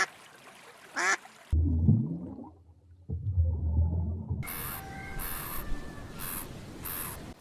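A duck quacks twice, about a second apart. Then the sound cuts to a low-pitched animal call with a gliding pitch, followed by four short noisy bursts over faint steady tones.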